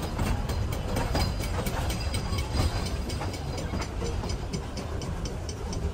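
Puffing Billy narrow-gauge heritage train on the move: a steady low rumble from the carriage with a quick, uneven run of rattling clicks and clatter from wheels and rail joints.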